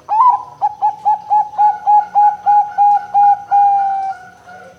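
Zebra dove (perkutut, Bangkok line) singing its coo song: one loud opening note, then a quick even series of about a dozen short staccato coos at about three a second, ending in a longer drawn-out note that fades.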